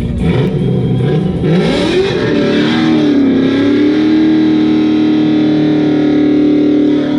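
Vortech-supercharged LS3 V8 revving hard, its note climbing over the first two seconds, then held steady at high revs.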